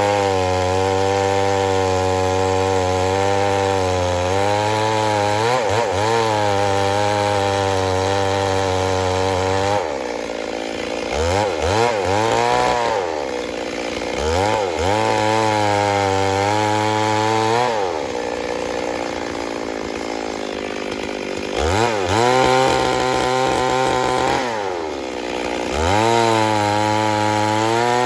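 Stihl MS 382 two-stroke chainsaw running at high revs, sawing wood. The engine pitch holds steady for about ten seconds, then drops and climbs back several times as the throttle is eased off and opened again.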